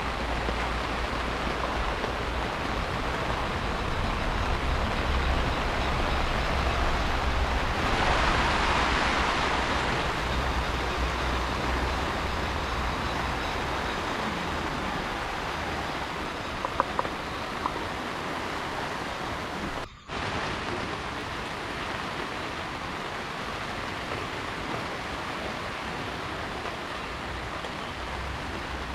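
Heavy rain falling steadily as an even hiss, with a low rumble beneath it. It swells louder for a couple of seconds about eight seconds in, a few small clicks come a little before halfway, and the sound cuts out for a moment about two-thirds of the way through.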